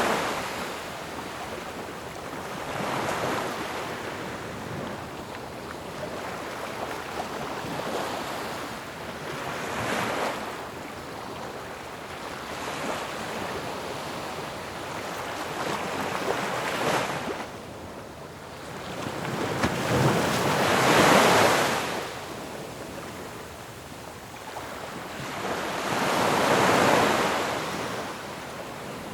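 Ocean waves breaking on a shore, a steady wash of surf with a wave crashing every few seconds, the loudest about two-thirds of the way through.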